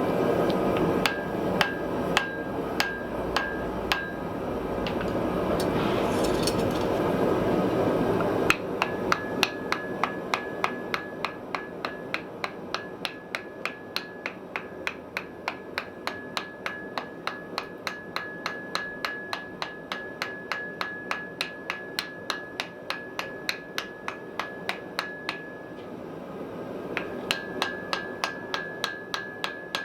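Hand hammer striking hot iron on an anvil, each blow ringing. For the first several seconds the blows are scattered over a loud steady rushing noise. Then, from about eight seconds in, comes a fast even run of about three blows a second.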